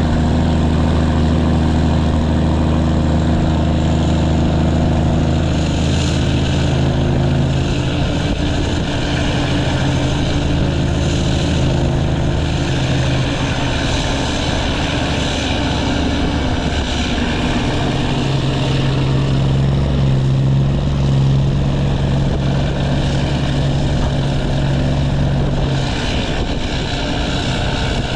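Straight-piped Cummins ISX inline-six diesel running under load, its exhaust giving a loud, deep, steady drone. The pitch holds for several seconds, wavers and shifts through the middle, then settles into a steady drone again.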